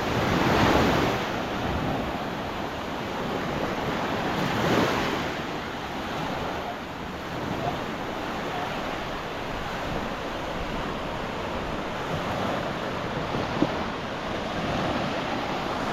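Surf breaking on a sandy beach, a steady wash of water with waves surging louder about half a second in and again near five seconds, and wind buffeting the microphone. A single sharp tick sounds late on.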